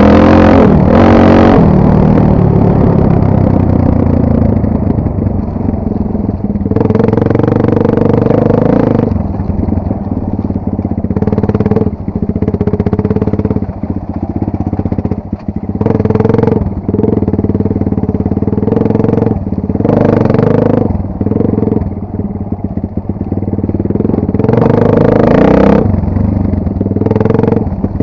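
Enduro motorcycle engine running under riding load, the throttle opened and closed again and again, with louder revving bursts several times.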